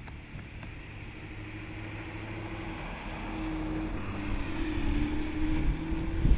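A Chrysler 200S sedan driving past, its engine note steady at first and then wavering as it comes by, growing steadily louder and loudest near the end.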